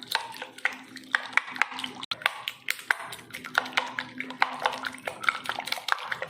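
Raw egg mixture being beaten in a bowl: a utensil clicks against the bowl about three times a second with wet, splashy strokes.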